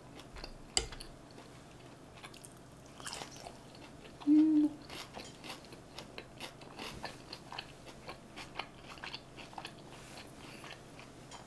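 Close-miked chewing of North Korean tofu rice, a fried tofu pouch stuffed with rice and dipped in chili sauce: soft, wet mouth clicks and smacks. A brief hum is heard about four seconds in.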